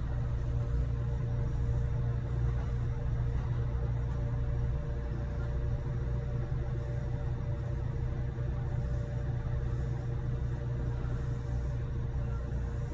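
Running noise of a Kintetsu electric train heard from inside the car: a steady low rumble with an even hum.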